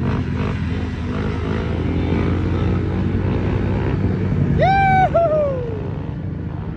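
Small motorcycle engines running steadily. About four and a half seconds in, a loud high-pitched whoop rises, holds, then slides down in pitch over about a second.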